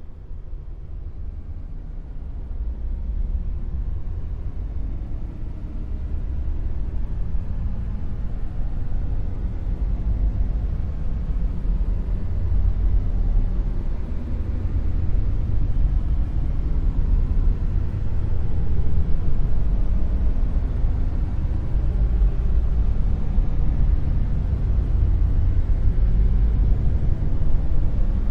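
Dark noise: a deep, steady low rumble with almost no high end, rising over the first few seconds and then holding, with slow swells in level.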